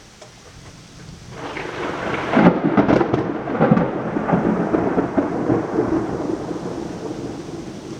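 A clap of thunder over steady rain: it builds about a second in into a loud crackling rumble, peaking a couple of seconds later, then rolls on and slowly fades.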